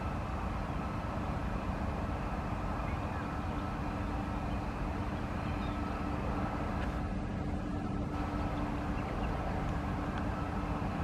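Airbus A300B4 airliner's jet engines running steadily: a constant rumble with a steady whine above it.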